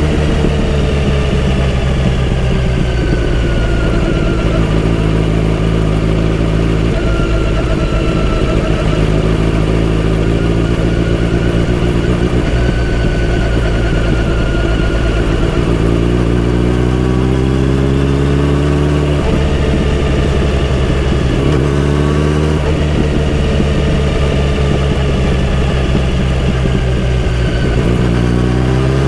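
Kawasaki Z900RS inline-four engine running under way, its pitch rising under acceleration and then dropping back at each gear change, several times over, before climbing again near the end.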